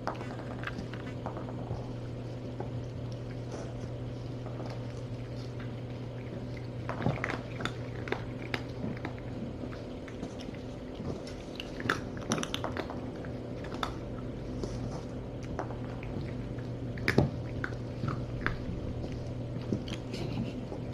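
Kittens crunching dry kibble: scattered small crunches and clicks over a steady low hum, whose lowest part drops out about halfway through.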